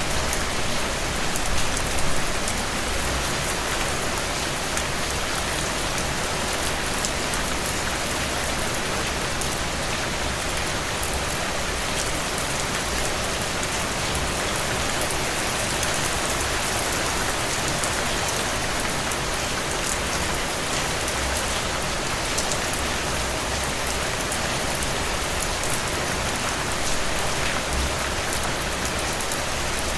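Steady rain falling, a dense even hiss with fine drop patter on top and a low rumble underneath that swells now and then.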